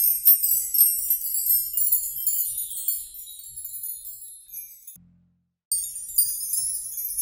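Small metal bells jingling in a high, continuous tinkle, with a couple of sharp clicks in the first second. It cuts to silence about five seconds in, then starts again a moment later.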